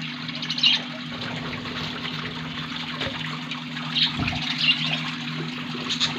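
A budgerigar colony chattering, with a few sharp, high budgie chirps standing out about half a second, four, four and a half, and six seconds in, over a steady low hum.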